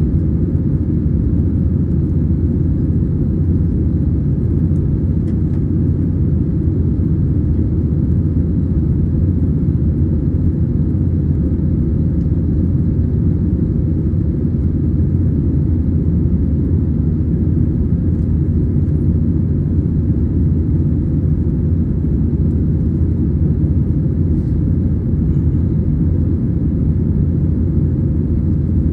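Cabin noise inside an Airbus A320 with CFM56 engines: a steady low rumble of the engines and airflow, unchanging throughout.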